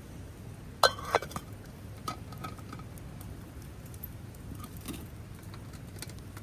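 Two sharp clinks with a brief ring about a second in, followed by a few lighter taps: hard objects knocked together, over a steady low background rush.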